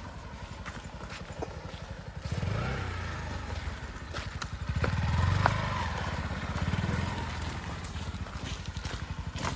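A vehicle engine running with a fast, even low pulsing. It picks up about two seconds in and again around the middle, as if revved or pulling under load.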